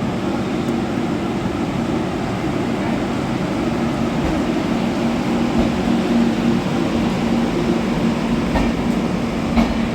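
Passenger train running, a steady noise with a low hum, and two short knocks near the end.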